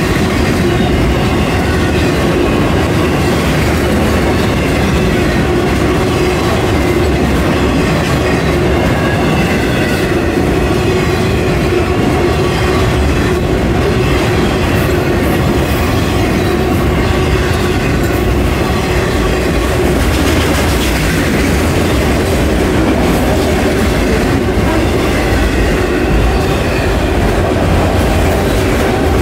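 Freight train cars, bulkhead flatcars and then autorack cars, rolling steadily past at a grade crossing: a continuous loud rumble of wheels running over the rails.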